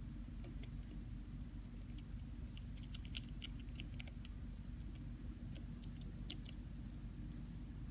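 Hamster nibbling cabbage: small crisp clicks and crunches, bunched about three seconds in and again around six seconds, over a steady low hum.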